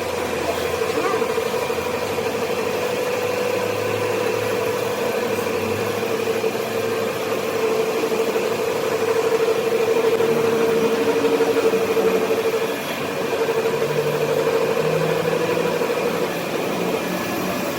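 A machine running steadily with an even, slightly pulsing hum at one pitch. It drops out briefly about thirteen seconds in, then runs again and stops near the end.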